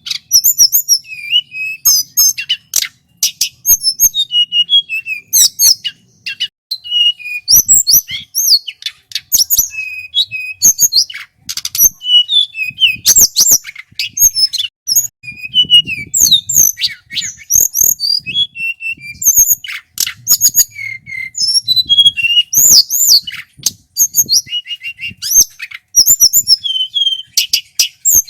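Male tledekan gunung, a blue flycatcher, singing loudly and continuously: rapid, varied whistled phrases and trills, with sharp clicks between them.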